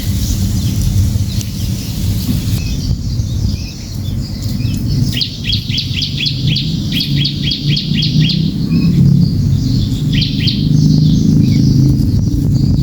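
A small bird, the cembelek, calling in a rapid chatter: a run of quick high notes that each drop in pitch, about four a second for some three seconds midway, then a short burst of three a couple of seconds later. A steady low rumble runs underneath throughout.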